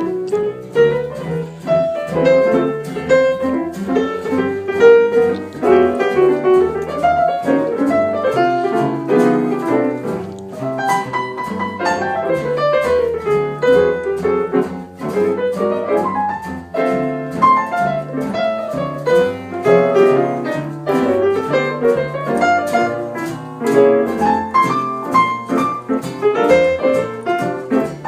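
Jazz piano playing with a double bass, a continuous flow of notes.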